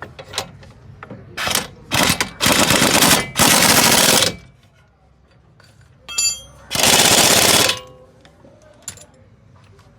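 Pneumatic impact wrench firing in three bursts of about a second each, the middle two back to back and the third near the end, with sharp clicks and knocks of tools between them.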